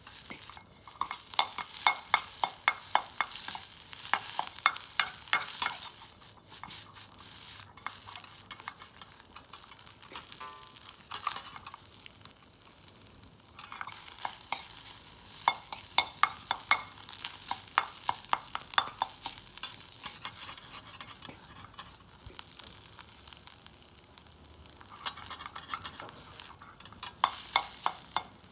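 Stir-frying in a wok: a metal spatula clacking and scraping against the pan in quick bursts of strokes, with food sizzling in the oil between them.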